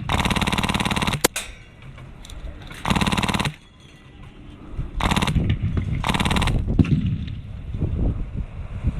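Airsoft machine gun firing full-auto in short bursts, four of them, each a fast rattle of rapid shots lasting about half a second to a second.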